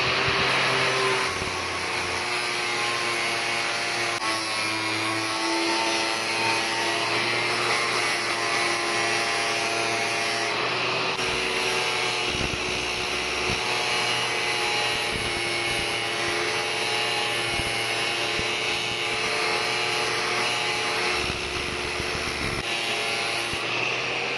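A small electric power tool running steadily against metal: a constant motor whine over a rough grinding hiss. Its pitch dips slightly about four seconds in.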